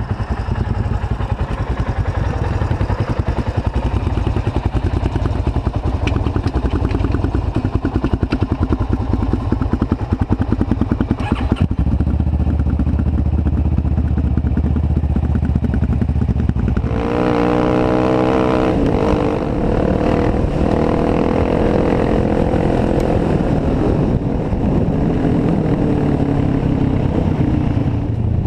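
A Kawasaki Ninja 650R parallel-twin motorcycle engine, fitted in a custom off-road bike, running at a steady low speed with a rapid even beat. Partway through, the engine note rises and falls repeatedly as it is revved or ridden through the gears.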